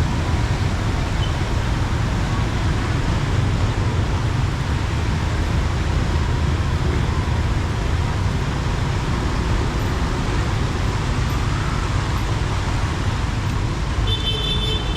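Heavy rain falling with a steady wash of road traffic noise. A short, high-pitched horn toot sounds near the end.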